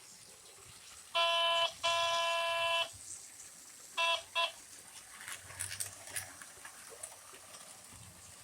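HO-scale model locomotive's horn sounding: a short blast, a long blast, then two quick short toots.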